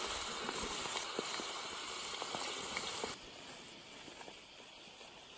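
Cut potatoes sizzling as they fry in a steel wok on a camp stove, an even hiss with small scattered pops. About three seconds in the sizzle cuts off, leaving only a faint hiss.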